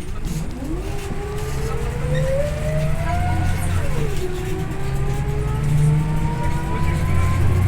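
Scania OmniLink I city bus's diesel engine and drivetrain accelerating under a steady low rumble, with a whine that rises in pitch, drops sharply at a gear change about four seconds in, then climbs again.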